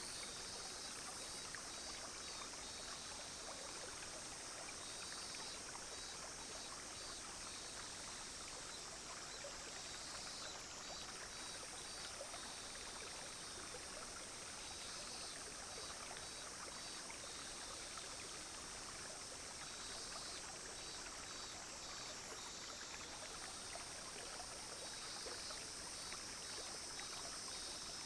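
A clear, shallow stream flowing and burbling steadily. Over it, cicadas and other insects keep up a continuous high buzz, with short runs of rapid pulsing chirps every few seconds.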